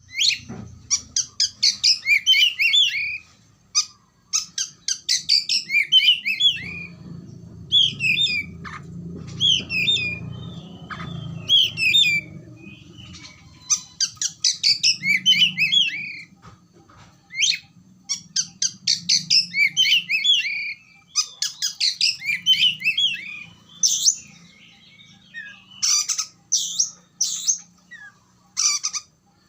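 Oriental magpie-robin (kacer) singing: quick runs of varied chirps and whistles in phrases a second or two long, broken by short pauses. A faint low hum sits behind the song for a few seconds in the first half.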